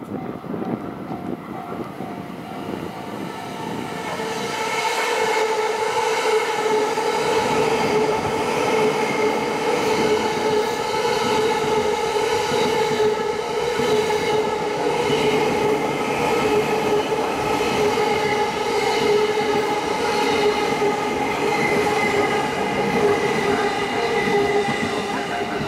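JR East E217-series electric train passing through a station without stopping. Its running noise grows louder about four seconds in and then holds steady as the cars go by, with a steady whine over the rolling of the wheels.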